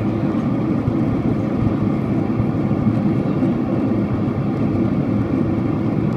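Steady low rumble of a Boeing 767-400ER's engines and airflow, heard inside the passenger cabin.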